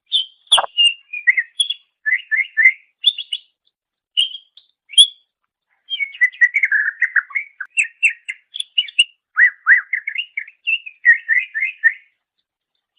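Cucak ijo (green leafbird) singing a rapid, varied song of chirps, trills and whistled notes, with two brief pauses; it stops shortly before the end.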